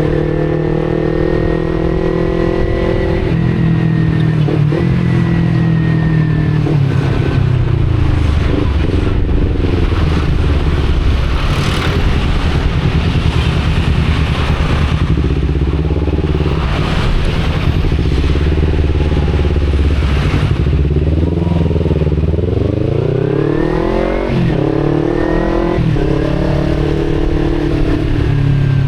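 Kawasaki Z250 parallel-twin engine through an Akrapovic exhaust, running at a fairly steady engine speed for most of the time, then revving up with a rising pitch about three-quarters of the way in. There is a brief dip, as at a gear change, before it climbs again.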